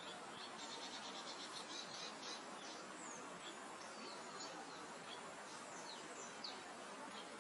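Soft steady wind hiss with small songbirds chirping over it: a fast trill of short repeated notes in the first couple of seconds, then scattered single downward-sliding chirps.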